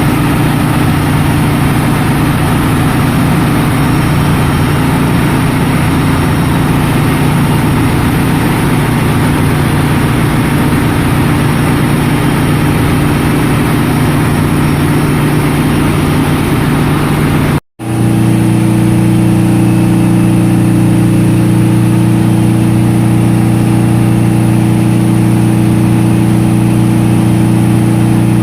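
Loud, steady drone of a ship's engine-room machinery running, with a constant low hum over a noisy roar. About two-thirds of the way through the sound cuts out for an instant and comes back with a different pitch of hum, as if from another machine.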